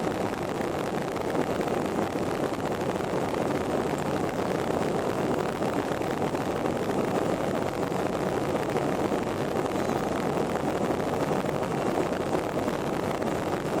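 Airliner noise: a steady, even rushing hum that holds without change.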